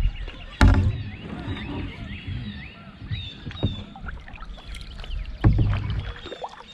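Two sharp knocks with a low thump, about half a second in and again near the end, over a low rumble of a fishing boat, with small birds chirping throughout.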